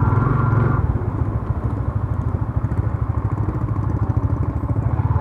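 Yamaha Sniper 150 motorcycle's single-cylinder engine running steadily at low speed, an even low pulsing beat, as the bike rolls along slowly behind cyclists.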